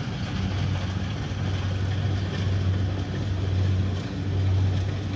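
Kubota DC70pro rice combine harvester's diesel engine running steadily with a deep, even hum, along with the noise of the machine at work.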